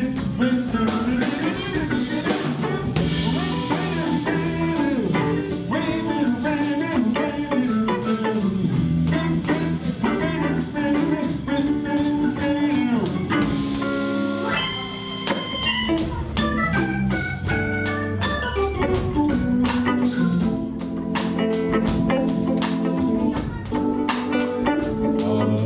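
Hammond B3 organ, electric guitar and drums playing an instrumental break in a slow blues-soul ballad, with melodic lines stepping up and down over a steady drum beat.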